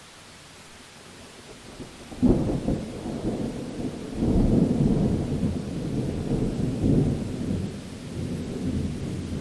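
Steady rain hiss, then about two seconds in a sudden sharp thunderclap, followed by long rolling thunder that swells twice more and keeps rumbling under the rain.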